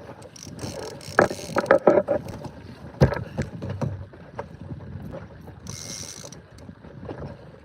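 Knocks and handling noises on a small inflatable boat as a bass is played and brought aboard, with a cluster of knocks about a second in, the loudest knock about three seconds in and a short hiss near six seconds.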